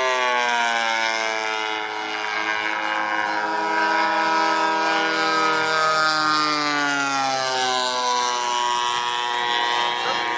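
Giant-scale RC P-47 model's DA-85 two-stroke gas engine running in flight, its drone sliding slowly down in pitch as the plane passes and then levelling off.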